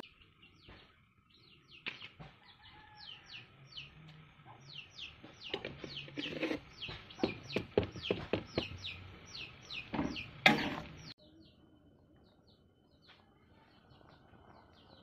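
Birds chirping: a quick run of short falling chirps, about three a second, fading away about eleven seconds in. Several sharp knocks come through the chirping, the loudest about ten and a half seconds in.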